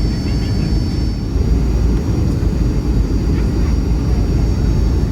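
Steady, loud rumble of a Boeing 757-200 heard inside the passenger cabin: engine and airflow noise with a faint, constant high whine over it.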